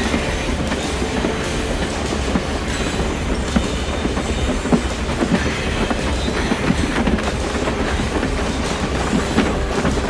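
Railroad train rolling along the track: a steady rumble with scattered clicks from the wheels on the rails.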